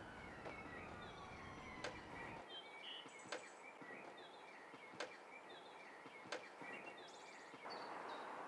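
Faint outdoor ambience with a small bird chirping over and over, about twice a second, and scattered sharp clicks. A low rumble and a slowly falling tone cut off about two seconds in, and a fuller, even outdoor hiss comes in near the end.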